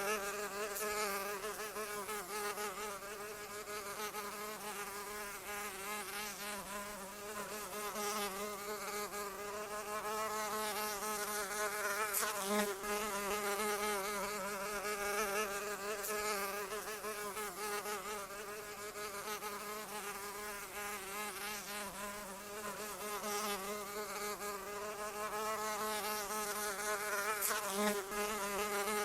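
Flying insect buzzing without a break, a droning hum whose pitch wobbles up and down, swelling briefly about twelve seconds in and again near the end.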